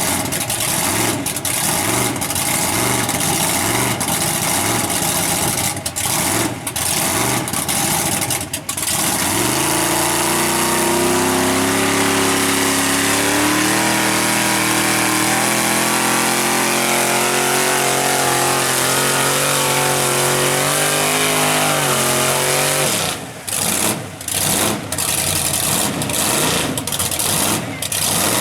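Mud truck engine blipping the throttle unevenly, then winding up into one long run at high revs, its pitch climbing slowly for about twelve seconds as it pulls through the mud pit, before dropping back to choppy throttle blips near the end.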